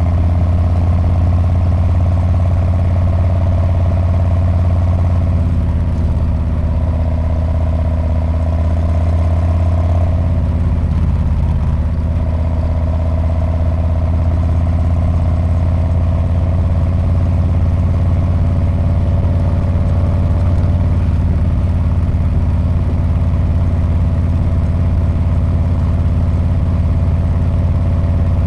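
Harley-Davidson Street Bob's V-twin engine running through its exhaust, a steady deep note whose pitch shifts only slightly.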